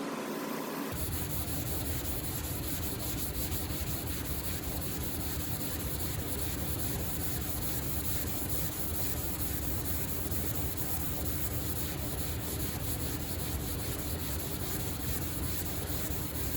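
Sandpaper scrubbing steadily over primer surfacer on a car hood, wet-or-dry sanding of the surfacer before paint. The sound starts about a second in.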